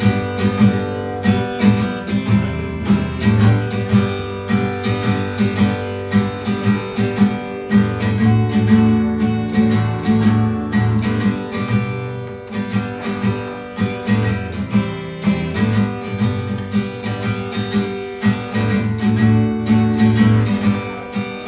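Acoustic guitar strumming the instrumental intro of a country song in a steady rhythm, with no singing yet.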